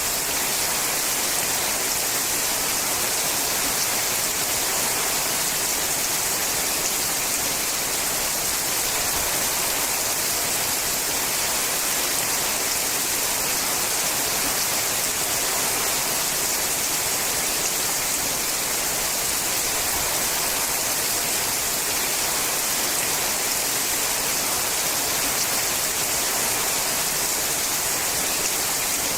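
Steady rain falling on a sheet-metal roof, an even hiss that does not let up.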